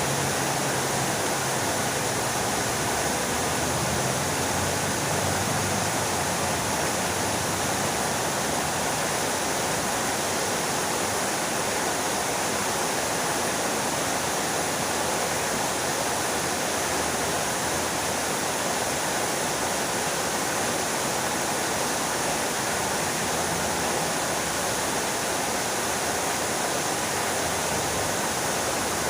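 Fountain water splashing steadily, an even rushing noise like a small waterfall.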